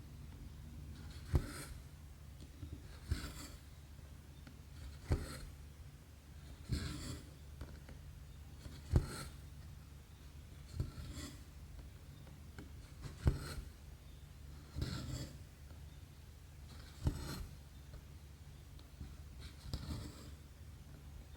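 Needle pushed through cross-stitch canvas and thread drawn through after it, about once every two seconds. Each stitch is a short tick followed by a soft swish of thread, over a faint steady low hum.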